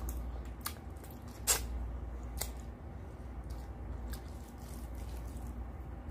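Close-miked eating: chewing a mouthful of rice and mutton curry, with scattered wet mouth clicks and smacks, the sharpest about a second and a half in, over a low steady hum.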